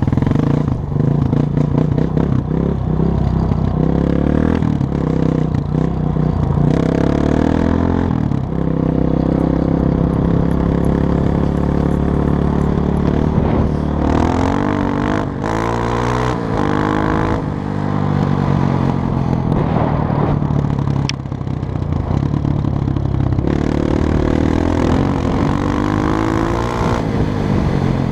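Honda CRF230 dirt bike's single-cylinder four-stroke engine running under changing throttle, its pitch rising and falling again and again as it revs up and drops back.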